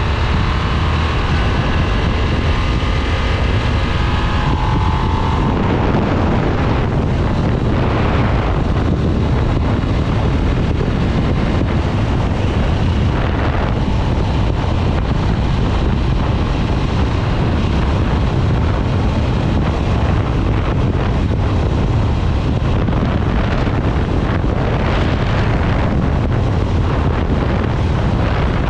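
Harley-Davidson Nightster's Revolution Max V-twin running steadily while riding, under heavy wind noise on the microphone. Some higher tones in the engine sound fade out about five seconds in, leaving mostly low engine rumble and wind.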